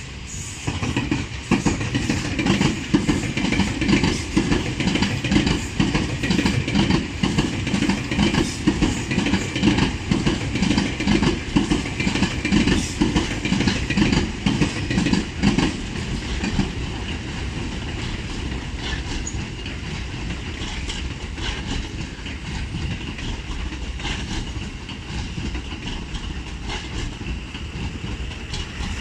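Tobu electric commuter train passing close, wheels clacking rhythmically over the rail joints. After about sixteen seconds the clacking gives way to a steadier, quieter running rumble.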